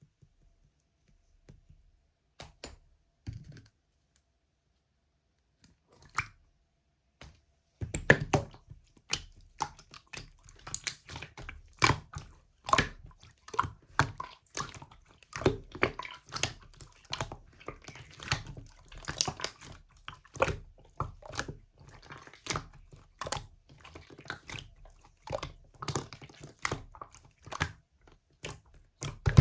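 Slime being squeezed and pressed by hand, giving a few scattered clicks at first, then a dense run of clicks and pops from about eight seconds in.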